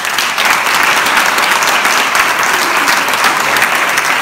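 Audience applauding steadily, many pairs of hands clapping together.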